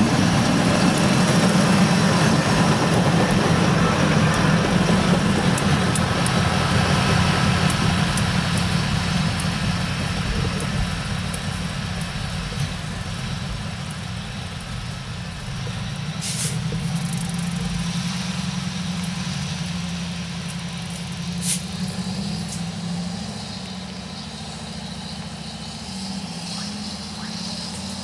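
BNSF intermodal freight train rolling slowly by on the rails with a steady rumble that gradually fades, with a couple of sharp clicks from the wheels in the second half.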